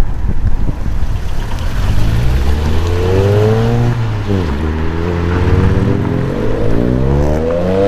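Sports car engine accelerating hard: a low rumble, then the engine note climbs, drops at a gear change about four seconds in, and climbs again through the next gear.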